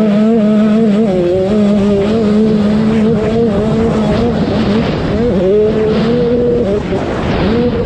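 KTM 85 two-stroke motocross bike engine revving hard under throttle. Its pitch wavers and drops, then climbs again about five seconds in and once more near the end.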